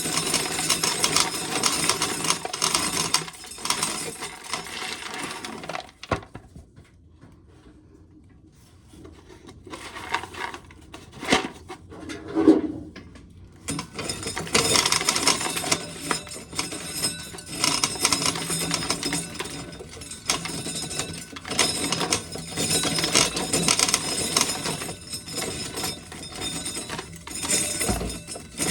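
Corn sheller running with a busy rattle and clinking as ear corn is shelled. It stops about six seconds in, a few knocks sound while it is off, and it starts up again at about fourteen seconds.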